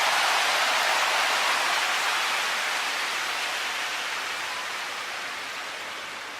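Heavy typhoon rain hissing loudly, strongest at the start and slowly fading away.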